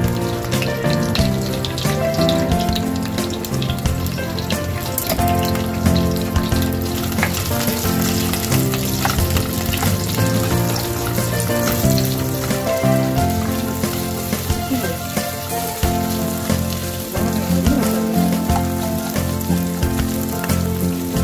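Onion, green chilli and capsicum sizzling and crackling in hot oil in a kadai as they are stirred and sautéed, with background music playing.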